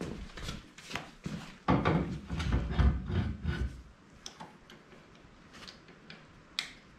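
Knocks, clicks and clatter of metal machine parts being handled during belt grinder assembly. There is a heavier stretch of bumping about two to four seconds in, then lighter scattered ticks and a sharp click near the end.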